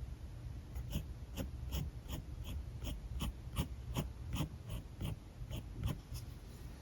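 Alcohol marker tip scratching across paper in short, quick strokes, about two to three a second.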